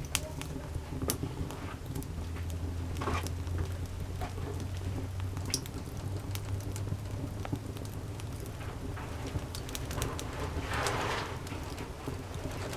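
Wood campfire crackling, with irregular sharp pops and snaps over a steady low background rumble. A short rushing hiss comes about ten seconds in.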